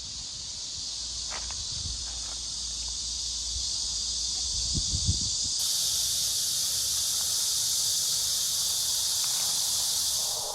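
Steady, high-pitched chorus of summer insects. It suddenly grows fuller and louder about halfway through and cuts off abruptly at the end.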